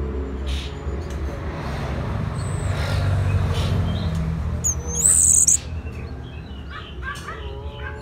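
Songbird calling: one loud, short, high whistled phrase about five seconds in, with a few faint chirps, over a steady low rumble that drops away soon after the call.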